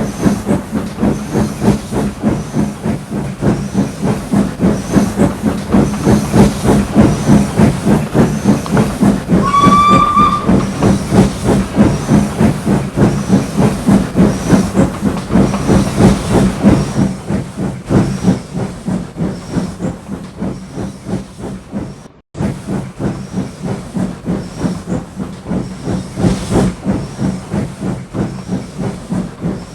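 Steam locomotive chuffing steadily in a quick even rhythm, with a light regular squeak and one short whistle toot about ten seconds in.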